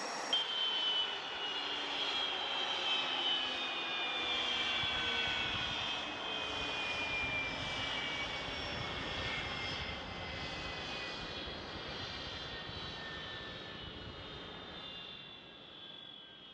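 Airplane flying past and moving away at an air show: a steady engine rush with a high whine that slides slowly down in pitch as it fades out near the end.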